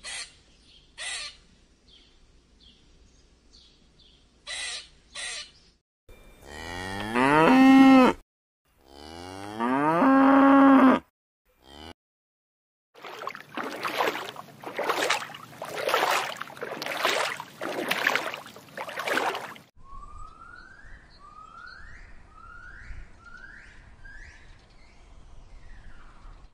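Two long cow moos, each rising in pitch and then held, about six and nine seconds in; they are the loudest sounds here. Before them come a few short sharp animal calls, and after them a stretch of rough noisy bursts, then a run of short rising chirps about twice a second.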